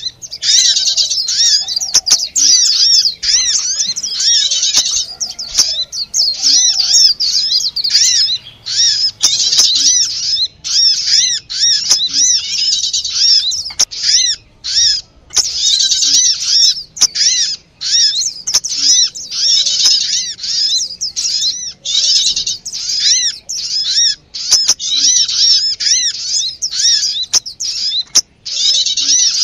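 Bird-lure recording of small songbirds calling noisily: dense, rapid, high-pitched chirps that overlap almost without pause, with a couple of brief breaks.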